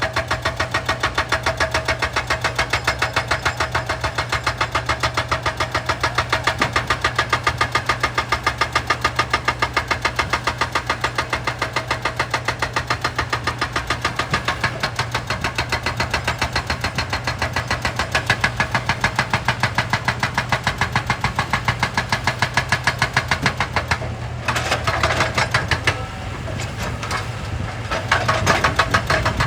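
Excavator breaking rock, with a fast, even pounding over the running engine. The pounding breaks off about four-fifths of the way through and comes back unevenly near the end.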